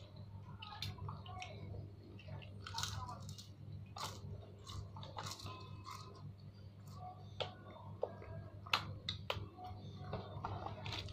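A child chewing and crunching food eaten by hand, with scattered short clicks and crackles over a steady low hum.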